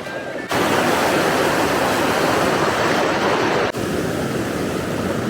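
Waterfall's water rushing steadily, a dense hiss. It jumps suddenly louder about half a second in and drops back suddenly a little before the end.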